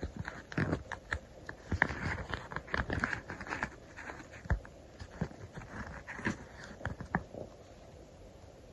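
Stickers being peeled and pressed down by hand: irregular crinkly paper rustling and light taps, which stop near the end.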